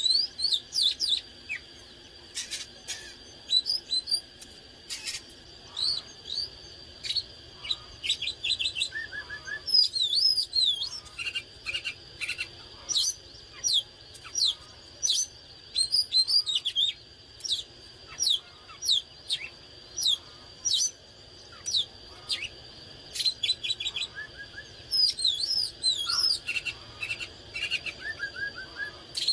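Oriental magpie-robin singing a long, varied song of rapid short whistles, sweeping notes and clicky trills in quick phrases, over a faint steady high whine.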